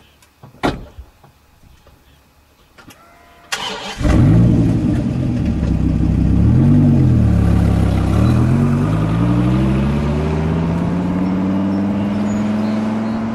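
Dodge Viper's V10 engine starting and catching about four seconds in, blipped once, then pulling away with the revs climbing steadily.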